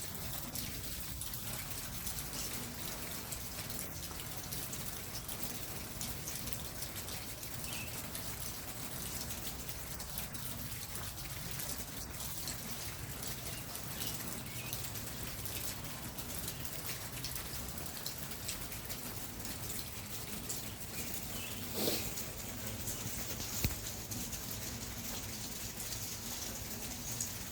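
Steady rainfall, with many small drops ticking close by. A louder knock about 22 seconds in and a sharp tap shortly after stand out over the rain.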